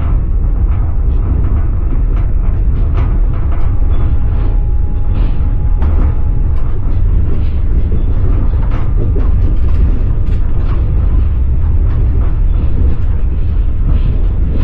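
Passenger train carriage rolling along the track, heard from inside: a steady low rumble with irregular clicks and knocks of the wheels over the rails.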